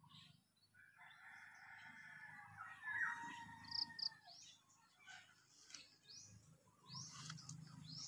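Faint outdoor bird calls: a drawn-out call lasting about three seconds, then a run of short, high chirps.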